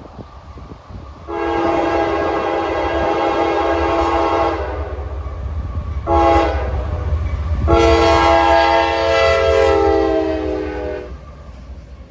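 Diesel locomotive air horn sounding a chord in three blasts, long, short, then long, over a steady low rumble of the train.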